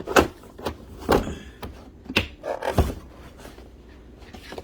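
Parts of a foldable cat litter box being pressed and snapped into its tray: a run of sharp knocks and clicks in the first three seconds, then quieter handling.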